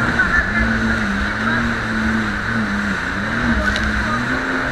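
Jet ski engine running under way, its pitch dipping just after the start and then rising and falling as the throttle changes, over the rush of water and wind.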